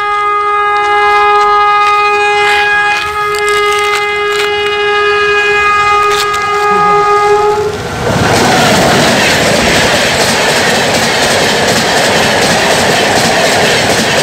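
Locomotive horn held in one long steady blast that cuts off about eight seconds in, as an express passenger train rushes past close by at speed, its wheels clattering over the rail joints.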